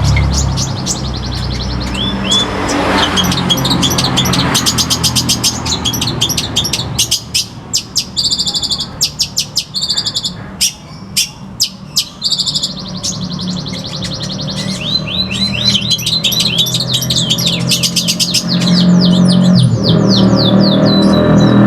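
Long-tailed shrike (pentet) singing a fast, varied song of sharp chirps, rapid trills and short repeated notes, changing pattern every few seconds, over a steady low hum.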